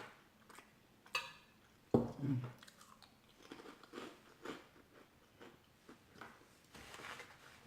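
A person chewing food close to the microphone, with a crisp crunchy bite about a second in, a short sound from the voice near two seconds, then soft, regular chewing.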